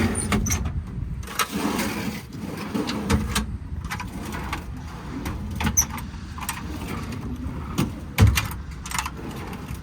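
Metal service-body tool drawers being pulled open and pushed shut: a series of scattered clicks, rattles and knocks, with the loudest clunk about eight seconds in.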